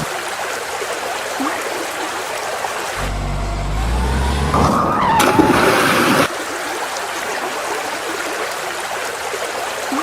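Vehicle engine running steadily, with a heavier low rumble and a rising then falling whine for a few seconds in the middle.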